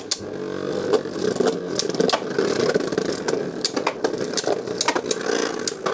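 Beyblade Burst spinning tops whirring in a plastic stadium, with repeated sharp clacks as they collide and scrape.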